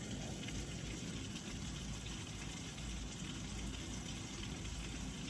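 Steady hiss of very heavy rain pouring down, an even wash of noise without breaks.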